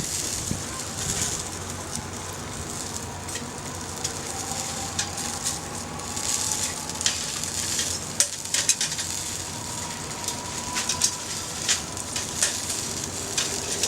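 Small wood fire of twigs and scrap wood crackling with sharp, irregular pops, over a steady sizzling hiss of sausages grilling on the fire grill. A faint thin whistle runs through the middle stretch.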